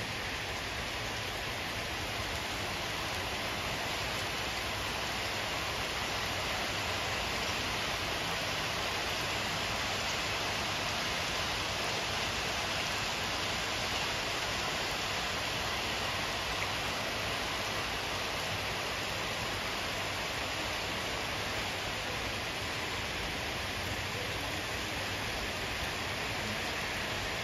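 Steady rain falling on wet pavement and puddles: an even, unbroken hiss.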